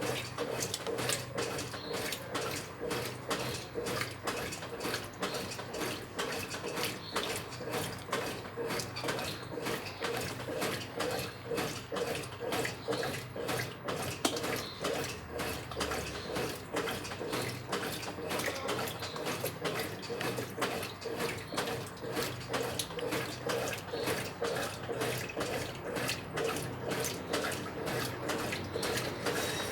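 Brastemp 9 kg top-loading washing machine running, water sloshing in the tub with a steady rhythmic rise and fall over a steady motor hum.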